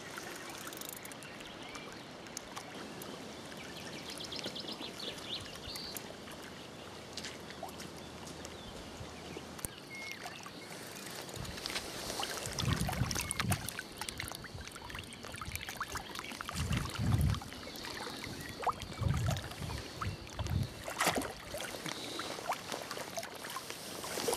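Lake water lapping and sloshing at the surface as a hooked carp is played in to the landing net. There is a run of fine ticks a few seconds in and several short low thuds from about halfway.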